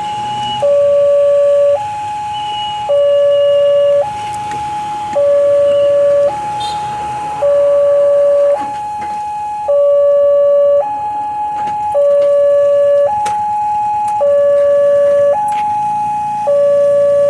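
Railway level-crossing warning alarm sounding a loud two-tone signal, a higher and a lower tone alternating about every second, warning that a train is approaching.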